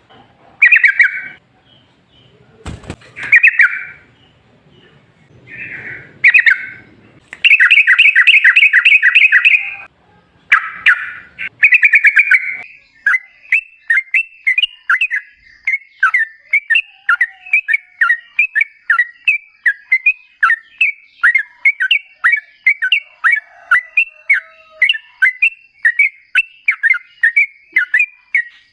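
Yellow-vented bulbul (trucukan) singing. It starts with short, separate chattering phrases and a fast trill about eight seconds in. Then, from a little before halfway, it sings a long unbroken run of quick repeated notes, about three a second.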